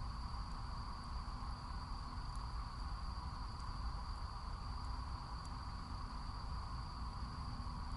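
Night insects, likely crickets, trilling steadily in a continuous high chirr, over a low rumble, with a few faint crackles from the wood fire.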